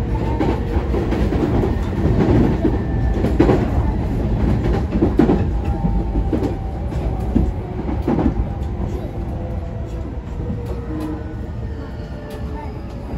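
Running noise heard inside a JR East E233 series 0 electric commuter train car: a steady rumble of wheels on rail, with irregular clicks over rail joints and a faint whine on top. It grows a little quieter in the second half.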